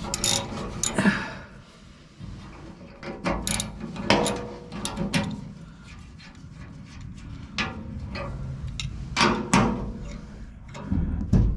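Hand tools clanking and clicking against metal as the bolts of a combine's straw-chopper knives are worked, in irregular knocks with a few louder strikes about 4 s in and again about 9 s in.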